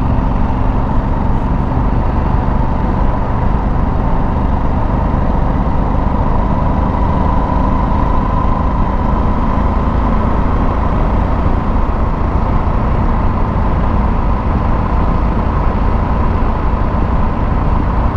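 Motorcycle running steadily at road speed, with a constant rush of wind and road noise.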